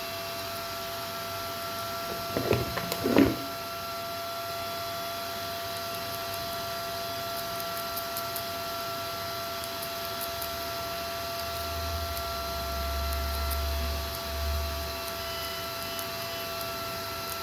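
Steady electrical hum with several thin tones. About two to three seconds in there is a brief clatter of small objects being handled, and a low rumble comes in later and fades.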